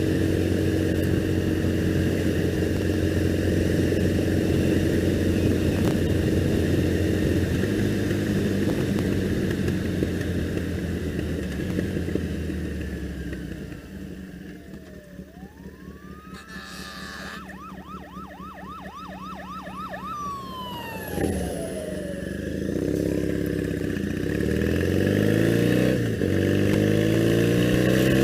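2001 Triumph Bonneville parallel-twin engine cruising steadily, then easing off. Midway, an emergency-vehicle siren wails and then yelps rapidly. Near the end the engine pulls away, rising in pitch.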